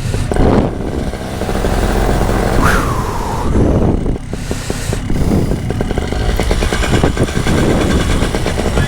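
Paramotor's two-stroke engine running steadily, with a short falling whine about three seconds in.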